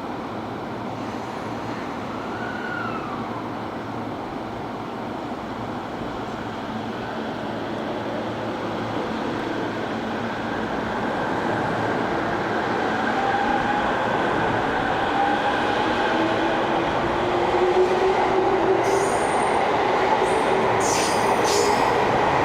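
Electric train running along the track, getting steadily louder as it comes closer. It makes a continuous rumble, a faint tonal whine joins it in the second half, and a few sharp clicks from the wheels and rails sound near the end.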